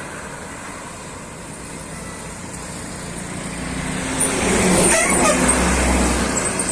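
A heavy road vehicle approaching and passing with its engine running, the low rumble swelling from about three and a half seconds in and staying loud near the end, with a high hiss over it.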